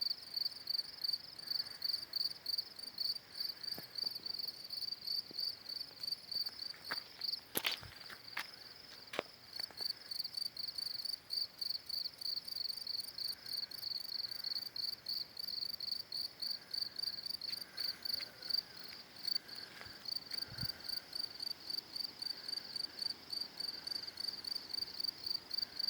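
Cricket chirping steadily: high, evenly paced chirps a few times a second, with a couple of sharp clicks about eight seconds in.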